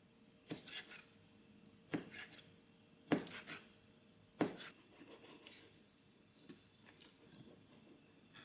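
A kitchen knife making four slow cuts on a cutting board, each a knock on the board followed by a short scrape, then a few faint small taps.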